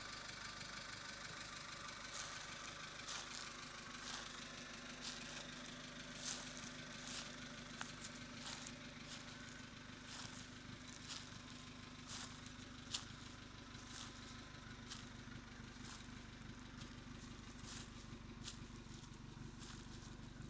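Suzuki Swift sedan idling through an aftermarket WM Sport exhaust: a steady low exhaust note, with scattered sharp clicks about once a second.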